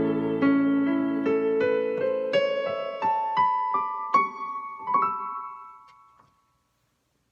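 Piano playing the final phrase of a hymn: a held chord, then single notes climbing step by step about three a second, dying away to silence about six seconds in.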